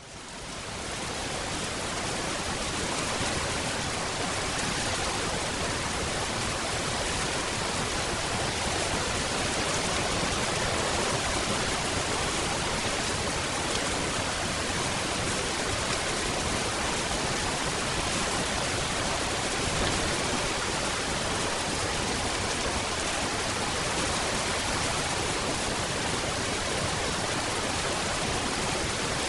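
Steady rain, an even hiss with no breaks, fading in over the first couple of seconds.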